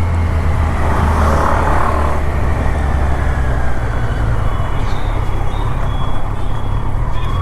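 Motorcycle under way on a road: a steady engine drone and wind rumble on the microphone, with no change in pace.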